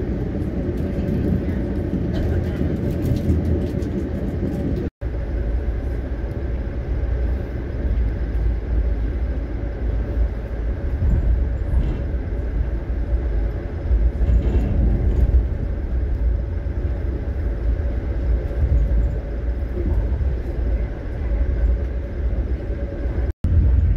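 Steady low rumble of an Amtrak Northeast Regional train running at speed, heard from inside the coach, with a faint steady hum over it. The sound cuts out for an instant about five seconds in and again near the end.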